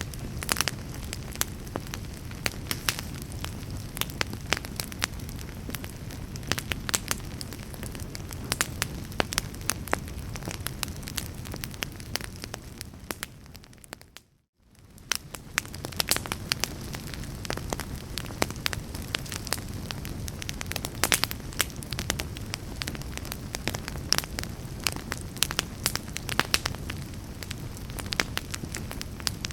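Wood fire crackling, with frequent sharp pops over a steady low rumble of flames. About halfway through it fades out to near silence for a moment and then fades back in.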